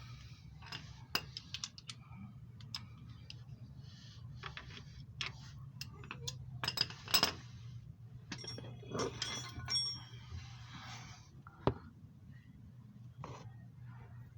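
Metal hand tools clinking and clattering: a splined socket and wrench being handled and fitted onto seized engine-mount bolts, with irregular sharp metallic clicks and short rings. A low steady hum runs underneath.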